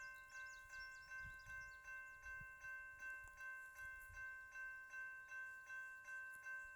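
Railroad grade-crossing warning bell ringing steadily at about three strokes a second, heard faintly.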